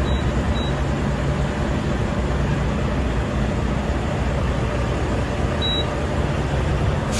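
Semi truck running, a steady engine rumble with road noise.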